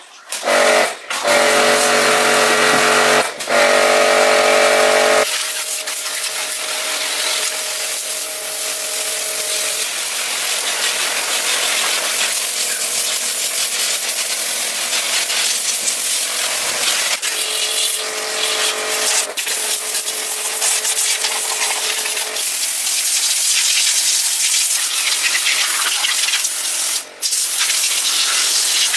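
Steady loud hiss of a pressurised spray from a nozzle. A machine hum runs under it for the first five seconds, then cuts off suddenly.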